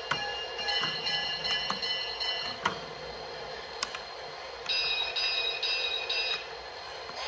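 Electronic sound effects from a Lionel O scale toy train: a held high tone for a couple of seconds, then a run of evenly pulsed tones, with a few sharp clicks between.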